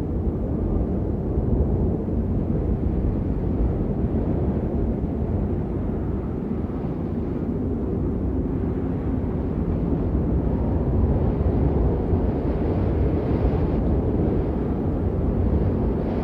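Steady rain noise, heavy in the low end and muffled, with little high hiss: an even, continuous wash of rain used as white noise.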